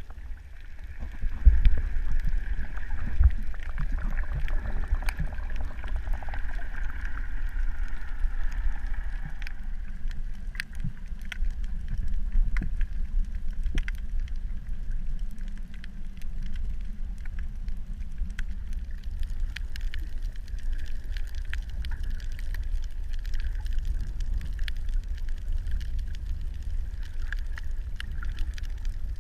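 Muffled underwater rumble of water, with scattered sharp clicks and a higher hiss that fades about nine seconds in.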